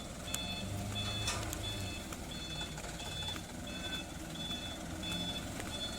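Dump truck's reversing alarm beeping about twice a second, high and even, over the steady low running of its diesel engine.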